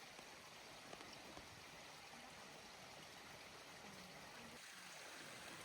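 Faint, steady rush of flowing water from a stream.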